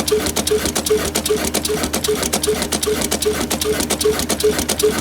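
Old diesel engine running steadily, with an even rhythmic beat a little over two times a second over a faster mechanical clatter.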